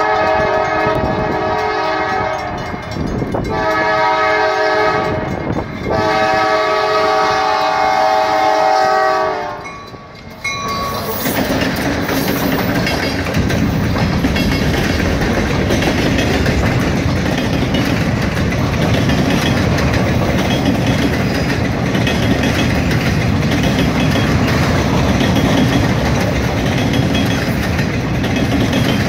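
Freight locomotive's multi-note horn blowing for a grade crossing: a blast that stops about three seconds in, then a shorter blast, then a long one that ends near ten seconds in. After that, the train's empty freight cars roll past with a steady rumble of wheels on rail and clattering over the joints.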